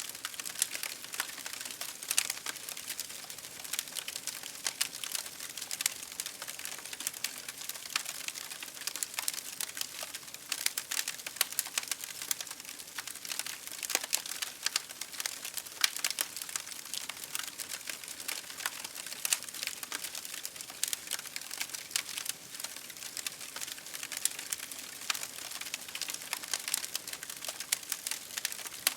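Campfire crackling: a dense, steady stream of small sharp pops and snaps, with a few louder pops scattered through.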